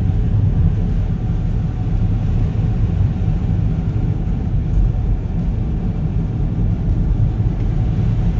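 Steady low rumble of a car driving slowly on snowy roads, heard from inside the cabin.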